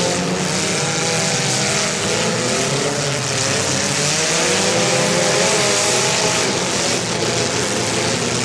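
Several compact demolition-derby cars' engines revving hard at once, their pitches rising and falling as the cars push against each other in the mud.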